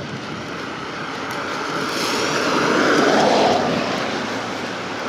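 A vehicle passing: a rushing noise that swells to its loudest about three seconds in and then fades.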